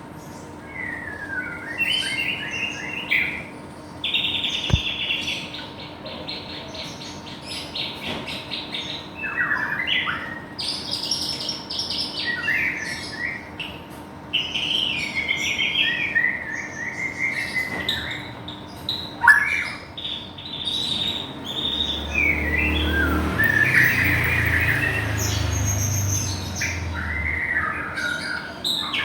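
White-rumped shama (murai batu, Medan type) singing a long, varied song of whistled slurs, chattering notes and a fast buzzy trill, rich in mimicked fill phrases. A low rumble sits under the song for a few seconds near the end.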